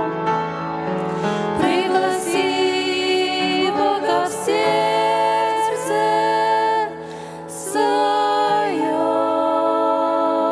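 A vocal group singing a Christian Christmas song, several voices in harmony holding long notes.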